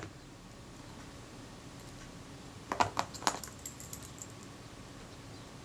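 A few small, sharp metallic clicks and ticks, bunched a little before the middle, from a retainer and small tools being handled against the camera's rangefinder parts. Between them, faint room tone.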